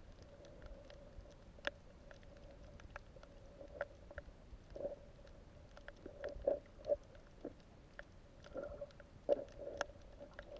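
Underwater sound on a coral reef: scattered sharp clicks and soft pops, thickest in the second half, over a faint steady hum.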